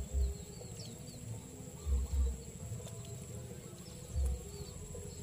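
Faint bird chirps repeating now and then over a steady high-pitched whine, with a few short low thumps of handling or wind on the microphone.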